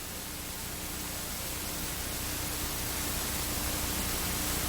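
Steady static-like hiss, slowly growing louder, with a faint steady hum underneath.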